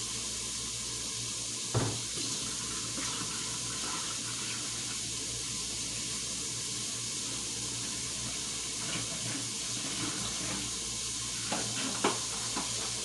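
Onions and bell peppers sizzling in an Instant Pot on its sauté setting: a steady hiss, with a light knock about two seconds in and another near the end.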